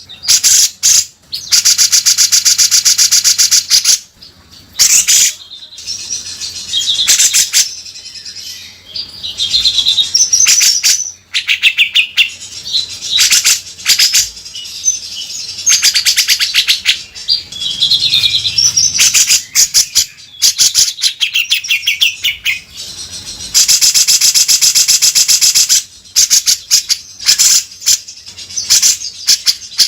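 Grey-cheeked bulbul (cucak jenggot) singing loudly: long, harsh rasping runs of very fast repeated notes lasting a few seconds each, alternating with shorter whistled warbling phrases.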